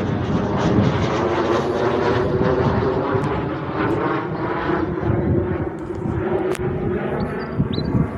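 Fixed-wing aircraft flying past, a loud steady engine drone with a stack of even tones.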